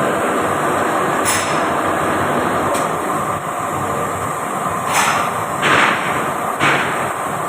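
Furnace running with a steady rushing noise, broken by five short sharp cracks or knocks, the loudest about two-thirds of the way through.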